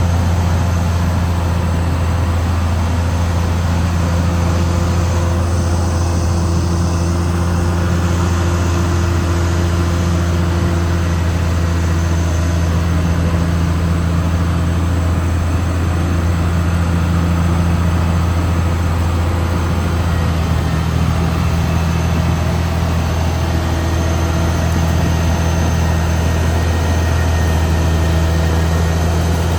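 Caterpillar D6R XL bulldozer's diesel engine running at a steady pitch, a loud, constant low drone.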